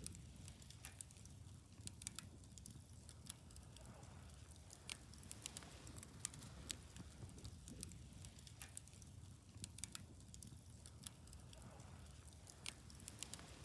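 Wood fire crackling: scattered sharp snaps and pops, several a second at irregular intervals, over a faint low rumble.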